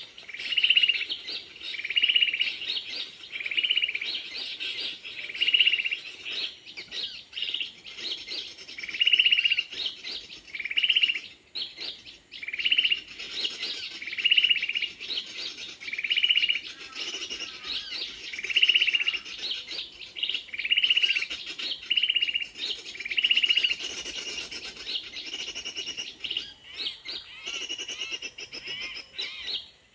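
A bird's short call repeated at a steady pace, about once every second or so, with other birds chirping more softly and more busily behind it.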